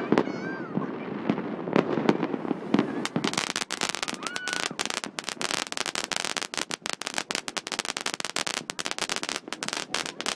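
Fireworks going off: scattered pops and bangs, then about three seconds in a dense, rapid crackling sets in and keeps going.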